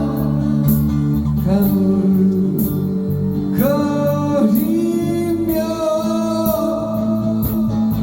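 A slow song sung in Korean: a singer holding long drawn-out notes over guitar accompaniment, with the word '가물거리며' sung near the end.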